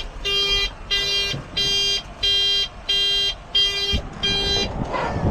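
Vehicle alarm siren sounding a run of sharp electronic beeps, about seven of them evenly spaced at roughly one and a half a second, which cut off shortly before the end; a thump comes near the end of the beeping. The sound is called "so annoying".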